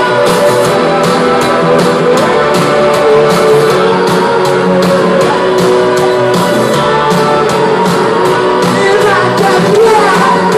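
Rock band playing, with guitar over a steady drum beat.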